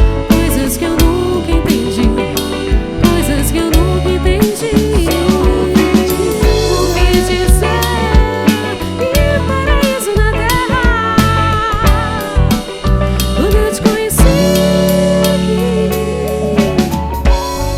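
A live band playing: drum kit, bass and guitar under a wandering lead melody line.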